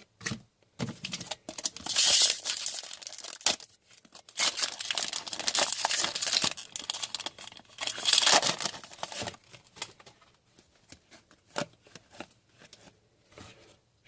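Hockey card pack wrappers being torn open and crinkled in the hands, loudest in two stretches in the first part, then quieter handling of the cards.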